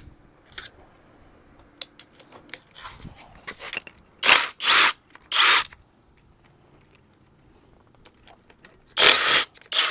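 Work handling noises: scattered light clicks and knocks, then three short scraping or rustling sounds in quick succession about four seconds in, and another near the end.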